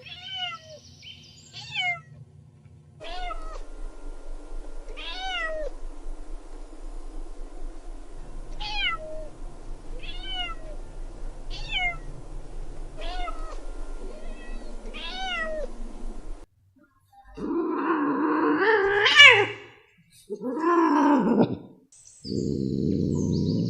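Cats meowing: a run of short, high, falling mews repeating about once a second, then two longer, louder meows and a drawn-out buzzy call near the end.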